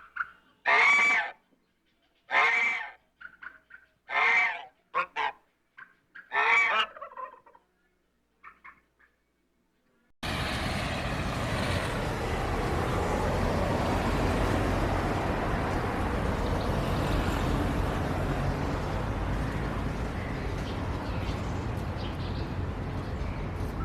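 A large bird's loud honking calls, about one a second for several seconds, then fading to a few faint calls. After a short silence the sound cuts abruptly to a steady, even rushing noise.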